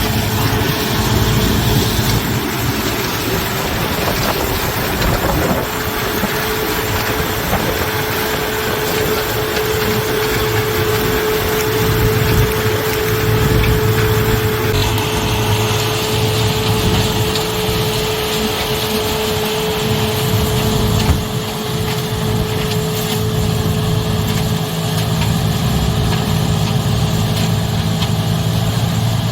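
Combine harvester running steadily while harvesting corn: engine and threshing machinery making a continuous drone, with a steady tone for about ten seconds in the first half.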